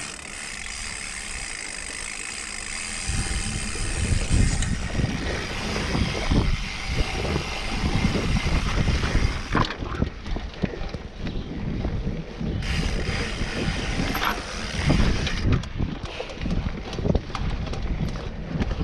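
Mountain bike riding over rough singletrack: the rear hub's freehub ratchet buzzes while coasting, over a rumble of knobby tyres and irregular jolts from roots and rocks. The buzz drops out about ten seconds in and comes back briefly.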